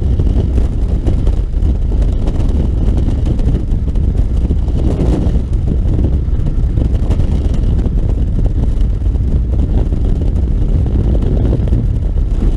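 Loud, steady rush of wind buffeting the microphone, a low rumble with no clear pitch.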